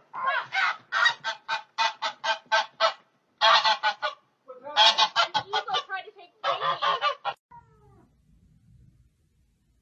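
A bird, goose-like, honking in rapid runs of short calls, about three or four a second, in several bursts that stop about seven seconds in.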